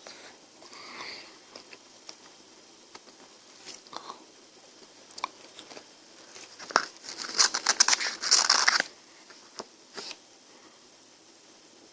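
Close-up biting and crunching of frozen ice cream: scattered small mouth clicks, then a dense burst of crisp crunching about seven seconds in that lasts about two seconds.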